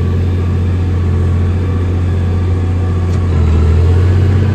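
John Deere tractor's diesel engine running steadily under load while hauling a loaded pan scraper. It gets a little louder and higher about three seconds in.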